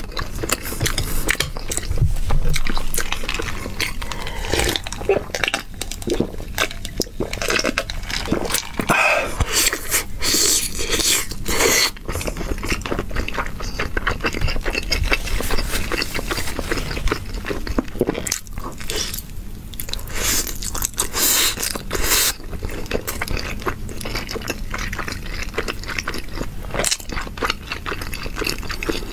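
Close-miked chewing and biting of noodles in dark sauce: a steady run of quick clicks and smacks from the mouth.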